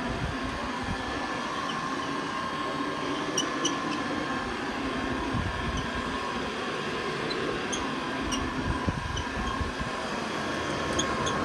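Vintage Hoover Model 105 upright vacuum cleaner running steadily, its motor and fan giving an even hum with a steady whine, with a few light ticks. The fan's oil-lubricated bushings have just been freshly oiled, and it runs smoothly.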